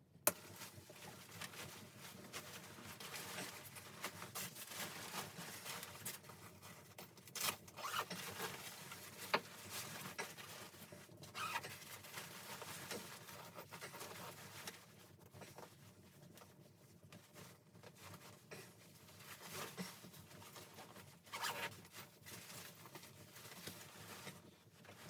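Continuous rustling and scratching, with a few sharp clicks and louder crinkly stretches scattered through it.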